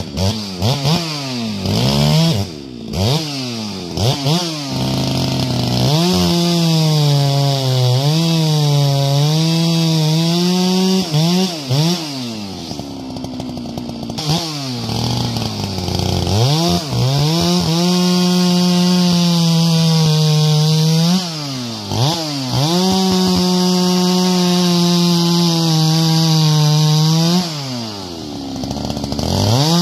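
Two-stroke chainsaw cutting tamarack logs for firewood. It blips the throttle quickly a few times, then runs three long cuts at full throttle, its pitch sagging and wavering under load. Between the cuts it drops back to idle.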